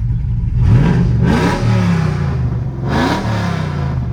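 Cammed truck engine, running through an exhaust with the mufflers removed (only high-flow cats and an X-pipe), blipped twice from idle: each rev rises quickly and falls back to a low idle.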